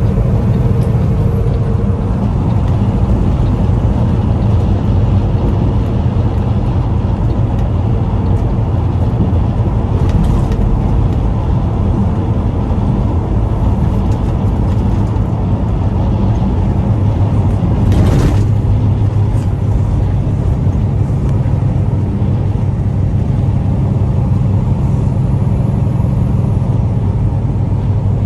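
Semi-truck under way: a steady, loud low rumble of engine and road noise, with one short whoosh about two-thirds of the way through.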